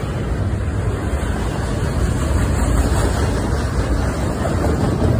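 Double-stack container well cars of a passing intermodal freight train rolling by close at speed: a steady deep rumble of steel wheels on the rails, growing a little louder over the first couple of seconds.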